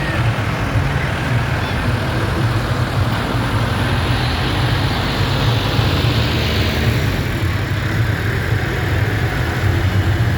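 Tractor engines running steadily, a low diesel-like drone, with a swell of louder, hissier noise between about four and seven seconds in.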